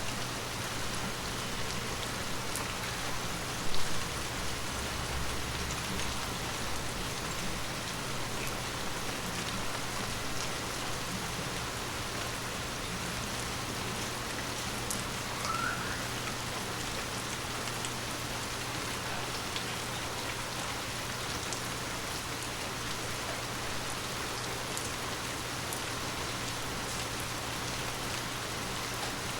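Steady rain falling on forest leaves: an even hiss with scattered individual drops ticking. One louder short knock about four seconds in.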